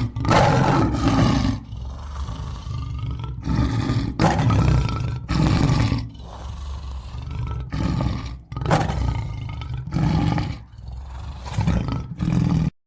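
Big cat roaring: a series of deep roars and grunts broken by short pauses every second or two.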